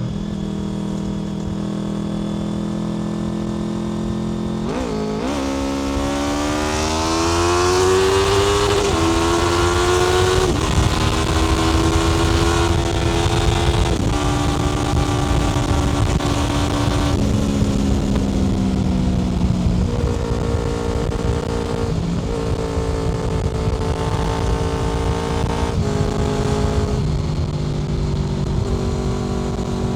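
Honda VFR800 FI's 90-degree V4 engine through a Black Widow aftermarket exhaust while riding. The engine runs steadily, then from about five seconds in its pitch climbs as the bike accelerates. It then settles to cruise, with several sudden steps in pitch from gear changes and throttle changes.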